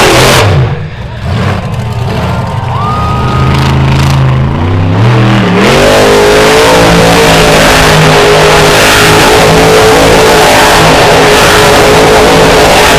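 Monster truck's engine at full throttle, dropping to low revs just after the start, then revving back up about five seconds in and held at high revs while the truck spins donuts.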